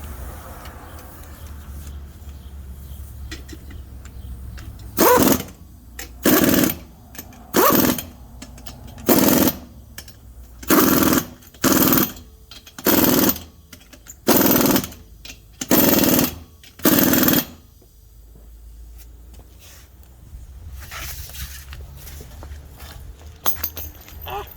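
Impact wrench fired in about ten short, loud bursts about a second apart, running lug nuts on a wheel.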